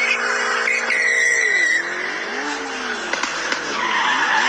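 Car tyres squealing in a skid: a loud, steady squeal that after about a second and a half begins to waver up and down in pitch.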